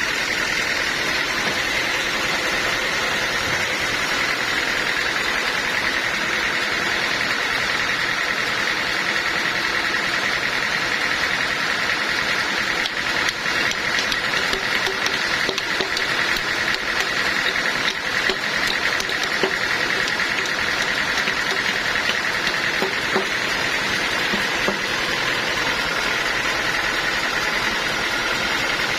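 Sawmill machinery running steadily with a constant hiss. From a little before halfway until near the end, irregular small knocks and rattles come and go over it.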